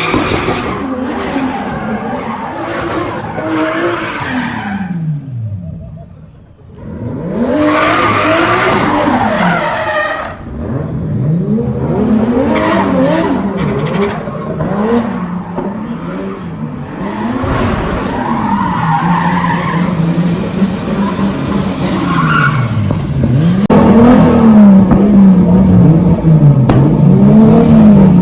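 Drift cars' engines revving up and down over and over while their tyres squeal and skid. The sound breaks off abruptly several times and picks up again with another run.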